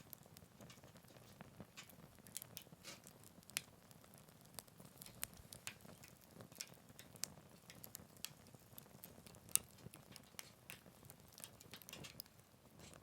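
Wood fire crackling in a Picogrill 398 fire pit: soft, irregular small pops and snaps, with one sharper snap about two-thirds of the way through.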